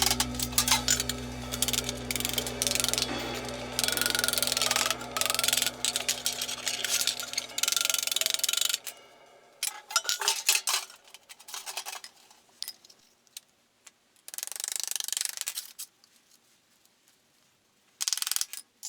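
Hand work on thin sheet-metal cans: repeated bursts of scraping and clattering, each about a second long with short quiet gaps between. Background music with a low steady tone fades out about nine seconds in.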